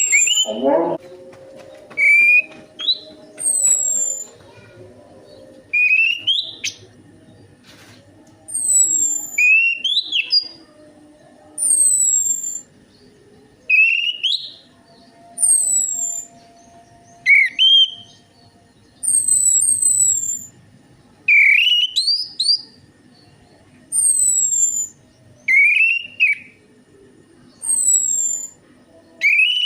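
Orange-headed thrush (anis merah) whistling short rising and falling notes, repeated in groups every second or two: a lure recording of its song, played to get a quiet bird to start singing.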